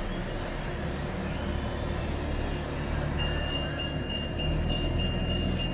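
BMW F800GS parallel-twin engine running steadily under way, with road and wind noise. About three seconds in, a high, faintly pulsing tone joins.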